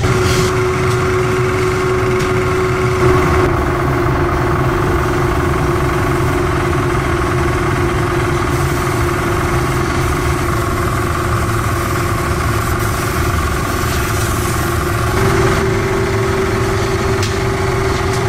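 A workshop machine's motor running steadily with a constant hum; its tone shifts slightly about three seconds in and again near the end.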